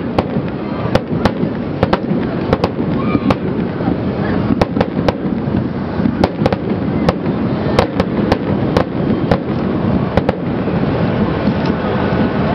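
Aerial fireworks shells bursting in a rapid, irregular string of sharp bangs, over the steady chatter of a large crowd.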